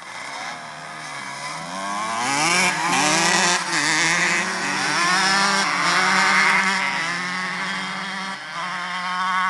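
125cc two-stroke motocross bike engines revving up and down as the bikes ride, the pitch rising and falling with the throttle. The sound grows louder about two seconds in, and near the end settles into a steadier high-revving note.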